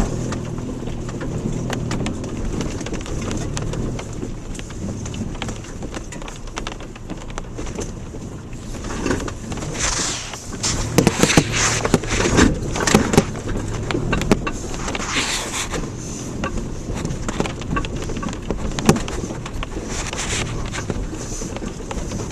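Subaru Outback driving over a rough dirt road: steady engine and tyre rumble. About halfway through comes a run of knocks and rattles as it crosses bumps, and one more knock follows a few seconds later.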